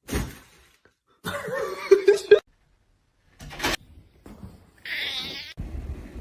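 A cat yowling: a drawn-out, wavering cry about a second long, among a few other brief sounds separated by silent gaps.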